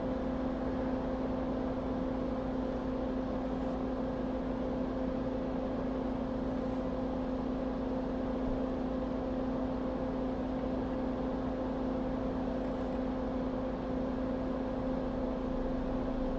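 Steady hum of a small electric motor, with a low tone and its overtone over a constant hiss.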